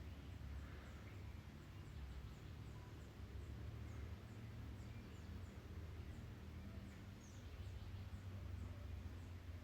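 Faint background ambience: a steady low rumble with a short, high chirp repeating about every half second.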